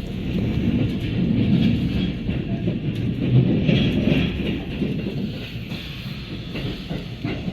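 Sendai Namboku Line subway train heard from inside the car while running: a steady low rumble of wheels on rail with a fainter hiss above it.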